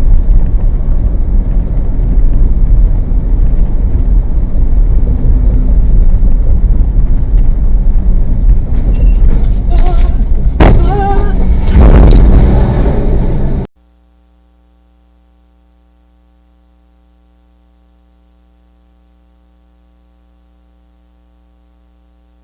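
Loud, steady rumble of a car in motion, heaviest in the low end, with a brief wavering tone about eleven seconds in. It cuts off suddenly about fourteen seconds in, leaving a faint steady hum.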